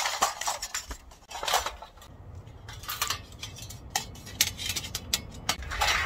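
Irregular light metallic clinks and clicks of tent hardware being handled while a tent is pitched.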